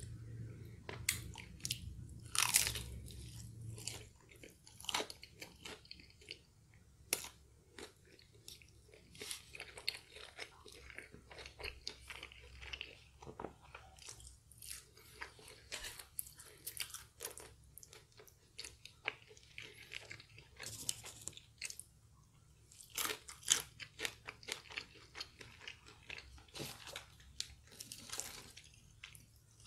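Crispy fried chicken being bitten and chewed close to the microphone: irregular crisp crunches of the fried coating with chewing mouth sounds, a few short pauses between bites.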